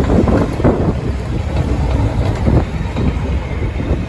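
Train running, a loud steady low rumble with irregular knocks and clatter.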